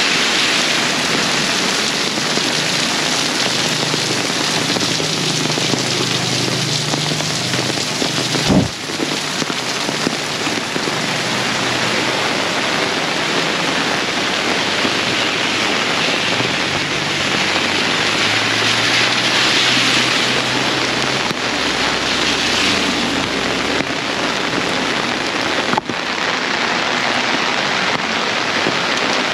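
Heavy tropical rain pouring steadily and splashing on surfaces, falling on an umbrella close to the microphone. A low vehicle engine hum passes twice, and there is a sharp knock about eight or nine seconds in and another near the end.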